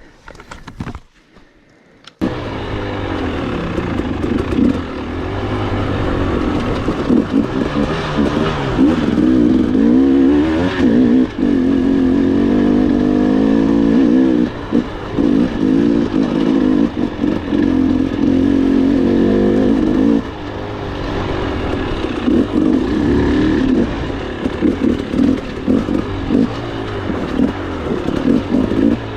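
Off-road trail motorcycle engine running under throttle while riding, its pitch rising and falling as the rider revs and eases off. It comes in suddenly about two seconds in, after a short quiet moment.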